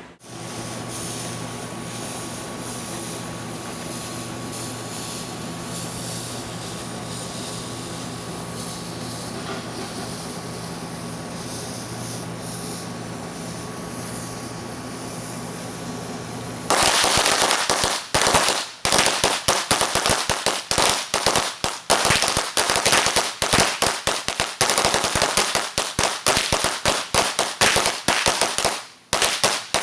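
A steady low hum with a faint tone, then, about 17 seconds in, a string of firecrackers (three fused 100-packs) bursts into rapid, dense popping. It runs on with brief lulls as one pack sets off the next.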